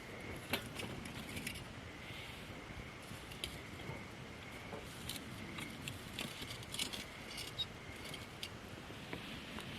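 Wood campfire of gathered branches crackling, with irregular sharp snaps and pops over a steady hiss. A faint steady high-pitched tone runs underneath.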